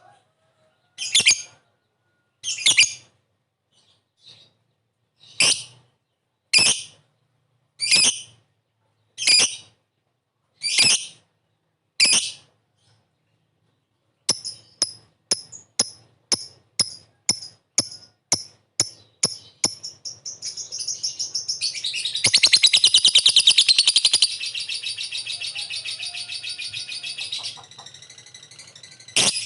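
Lovebird calling: first a string of short, high, separate calls about a second and a half apart. From about halfway it switches to fast ticking notes (ngetik), which speed up into a long, rapid chattering trill (ngekek) that is loudest near the three-quarter mark and then softens.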